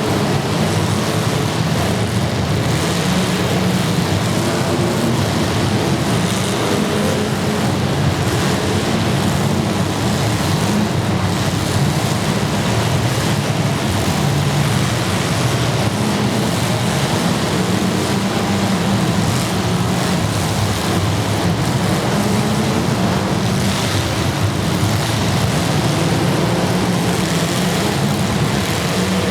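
Demolition derby cars' engines running together, loud and steady, with no single crash standing out.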